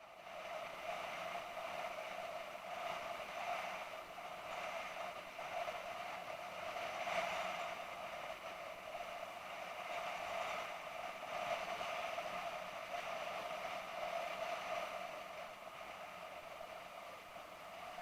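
BMW F650GS motorcycle running at a steady speed, its engine and road noise a steady, even hum.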